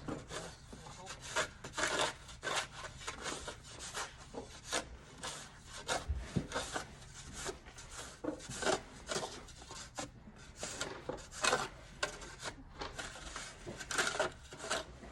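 A hand tool scraping and chipping at packed snow and ice on a driveway, in short irregular strokes of about two a second.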